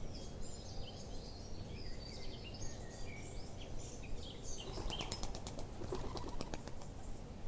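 Small birds chirping and twittering, with a quick run of rapid high ticks about five seconds in, over a steady low outdoor rumble.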